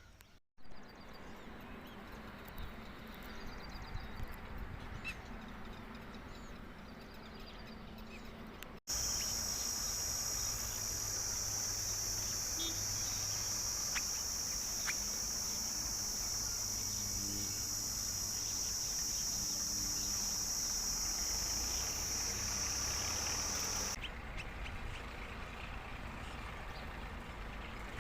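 Outdoor ambience with a few faint bird calls. In the middle a steady high-pitched hiss comes in and cuts off suddenly near the end, and the background changes abruptly at clip joins.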